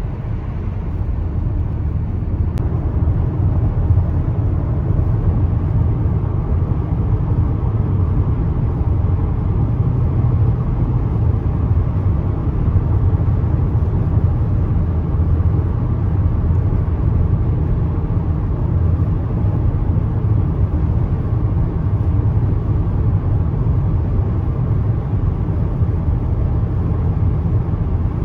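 Road noise of a moving car: a steady low rumble that holds evenly throughout.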